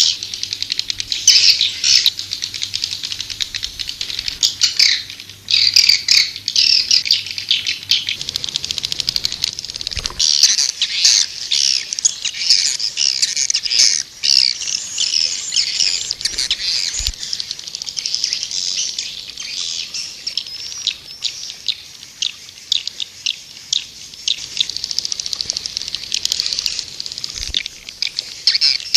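White-nest swiftlets twittering in a dense, continuous stream of rapid high chirps: a swiftlet call recording of the kind played to lure the birds into a nesting house. A faint low hum sits underneath for the first eight seconds or so.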